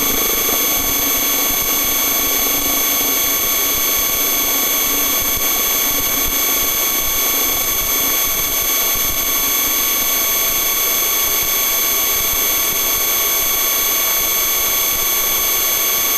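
Police helicopter's turbine engines and rotors heard from inside the cabin as a steady drone, with several constant high whining tones over it.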